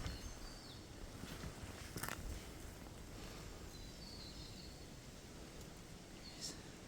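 Quiet bush ambience: a faint even hiss with a few short, high bird chirps, and two sharp clicks, one about two seconds in and one near the end.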